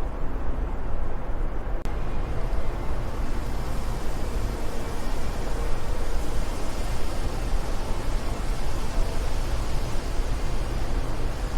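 Steady wind noise: a deep, even rumble with a hiss above it that grows stronger a few seconds in.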